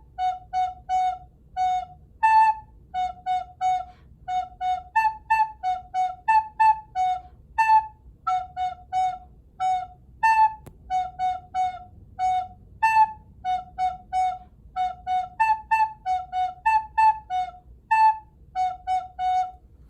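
Soprano recorder playing a simple tune in short, separately tongued notes that switch back and forth between two pitches, F sharp and A, with an occasional longer held note.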